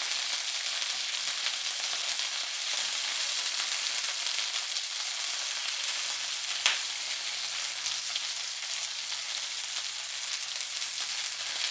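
Chicken wings pan-frying in oil over medium heat: a steady sizzle, with one sharp click about seven seconds in.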